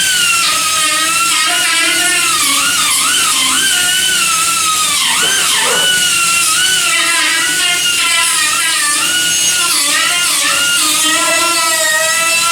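Handheld electric power tool running continuously on sheet metal, a high whine whose pitch wavers and dips again and again as it is loaded, dropping deepest about five to six seconds in.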